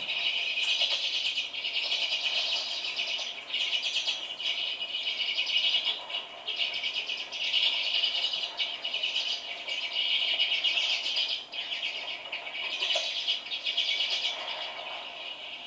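A flock of small birds chirping and chattering continuously at a feeder, many calls overlapping, relayed indoors through a listening device's speaker.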